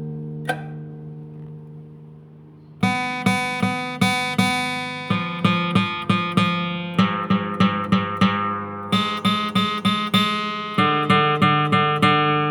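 Acoustic guitar music: a chord rings and fades, then about three seconds in a steady rhythm of strummed chords begins.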